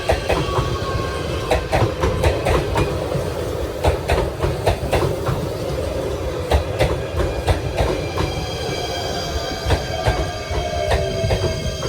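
Electric local train running on the rails, its wheels clacking over rail joints, with a faint motor whine that falls in pitch in the last few seconds as the train slows.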